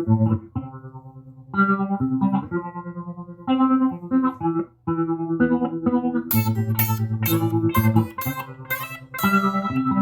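Instrumental guitar music: plucked electric guitar notes and chords in a slow, melancholic jam. Sharper, brighter attacks join in about six seconds in.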